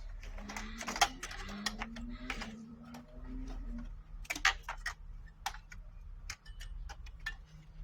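Irregular light clicks, clinks and knocks of scrap metal pieces being handled and moved, some sharper than others, over a low steady hum.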